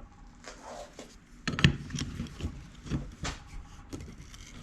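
Metal clicks and knocks of a C-clamp being set and tightened on a Saginaw power steering pump to press its end cap down into the housing. The sharpest knocks come about one and a half seconds in and again a little after three seconds.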